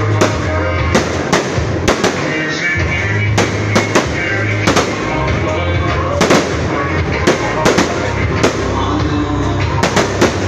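Fireworks bursting in irregular sharp bangs, about one or two a second, over loud music with a steady heavy bass.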